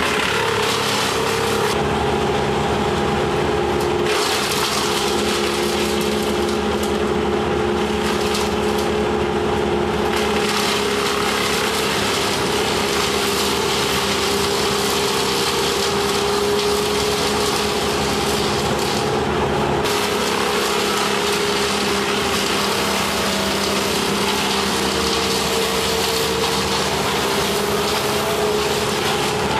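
Chainsaw engine running steadily while cutting through a tree branch.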